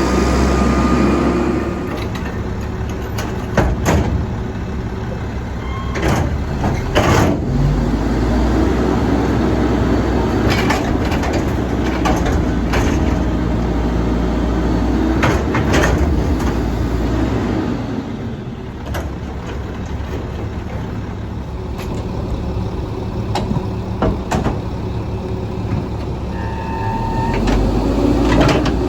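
Straight-piped diesel engine of a Mack MR rear-loader garbage truck running, rising in throttle for stretches as the Leach rear-loader body runs its packer, with repeated clanks and bangs of metal from the cans, tipper and body.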